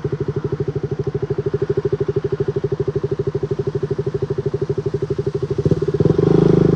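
Motorcycle engine running with a rapid, even putter that gets louder about six seconds in.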